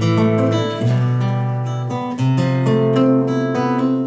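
Acoustic guitar strumming chords, opening a song before the singing comes in. The chords start suddenly and change roughly every second.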